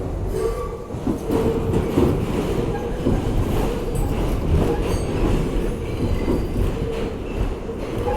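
R62A New York City subway train running at speed, with a steady rumble and rattle of wheels over the rails and short squeals from the wheels coming and going.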